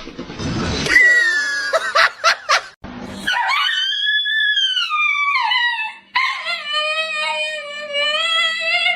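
A dog howling: a long howl that rises and then falls, followed by a second howl held at a steady pitch, after a rough noisy sound and a few short yelps at the start.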